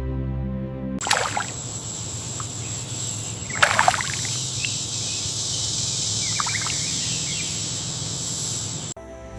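Steady outdoor water ambience with a high hiss, broken by three short splashes: one about a second in, the loudest near the middle, and a smaller one later. Soft music plays only in the first second.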